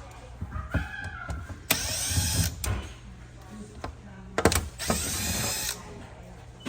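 Cordless power screwdriver whirring in two runs of about a second each, backing out the screws of a massage chair's rear cover panel.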